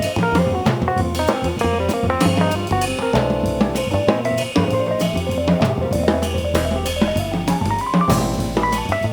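Live jazz band playing, with a drum kit and bass keeping the groove. A melody instrument plays runs of rising notes through the middle.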